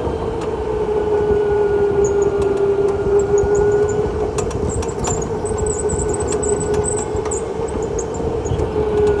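Indoor go-kart running on the track: a steady motor whine that sags slowly in pitch, over rumble and scattered rattling clicks.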